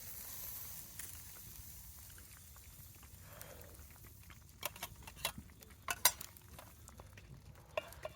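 Camp cooking: a faint sizzle, then a few sharp clicks of a utensil against cookware, the loudest about six seconds in.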